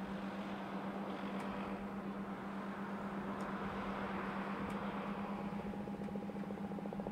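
Steady mechanical drone with a strong constant low hum, overlaid by a rushing noise that swells to a peak about four seconds in and then fades; a fast flutter joins near the end.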